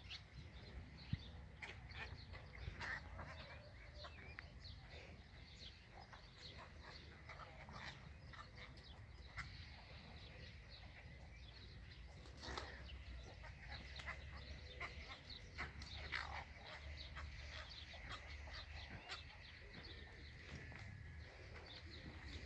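Cattle egrets calling in a flock: many short, overlapping calls scattered throughout, over a low rumble.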